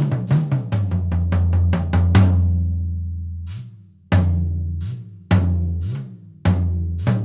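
Drum kit being played: a quick run of strokes, then single hits spaced about a second apart. Each hit leaves a deep, low drum tone ringing and fading away.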